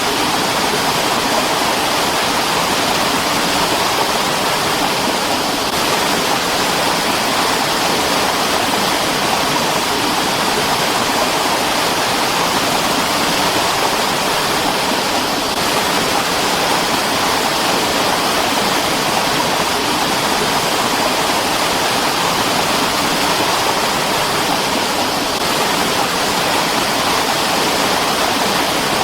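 Mountain stream: water rushing over rocks in a steady, dense rush with no breaks.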